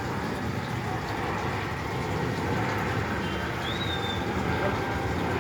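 Jet airliner passing overhead, its engines a steady broad rumble that slowly grows louder. A short high chirp sounds briefly in the middle.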